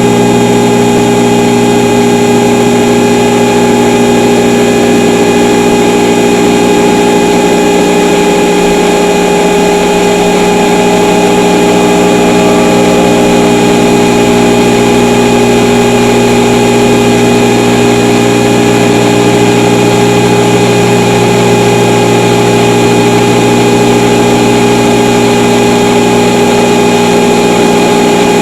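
Loud, unchanging electronic alert tone: a drone of several fixed pitches layered over a noisy haze, held steadily with no rise or fall.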